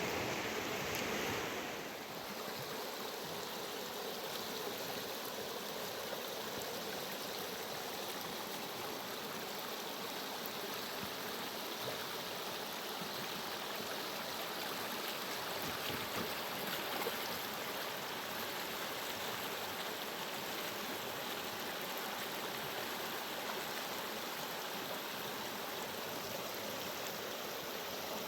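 Fast-flowing river water rushing steadily, slightly louder for the first couple of seconds and then an even rush.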